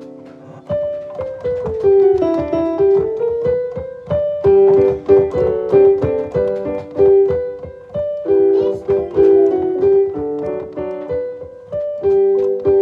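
Background piano music: a melody of quick struck notes with sustained accompanying chords.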